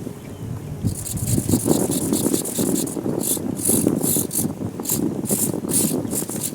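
Strong wind buffeting the microphone with a steady low rumble. From about a second in, it is joined by repeated bursts of high-pitched servo buzzing, a few a second, from the wing-flapping servos of a small radio-controlled butterfly ornithopter.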